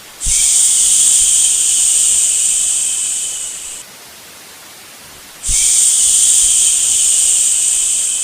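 Long, drawn-out "shhh" shushes for settling a baby to sleep: two of them, each about three and a half seconds, separated by a short pause. Each starts abruptly and tapers slightly. A faint, steady white-noise hiss continues underneath and fills the gap between them.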